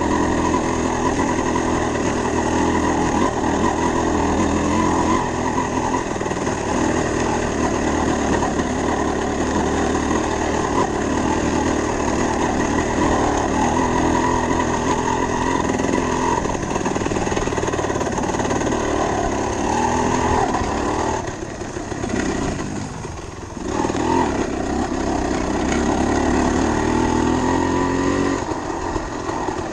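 Dirt bike engine running steadily, its level dropping briefly about two-thirds of the way through and then picking up again.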